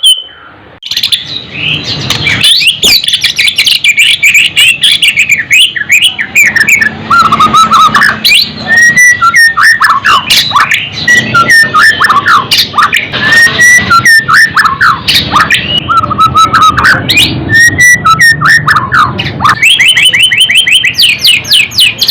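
White-rumped shama singing continuously: a long, varied song of clear whistles and quick chattering phrases that slide up and down in pitch. Near the end it switches to a fast run of repeated notes.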